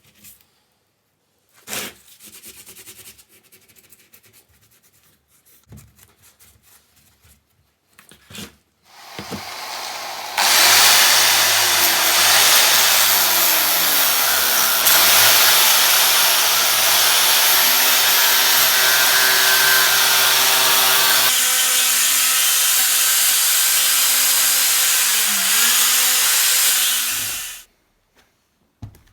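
A few light clicks and knocks from handling, then a handheld electric power tool spins up and runs loudly and steadily for about seventeen seconds with a hissing, rushing noise over its motor hum, before cutting off near the end.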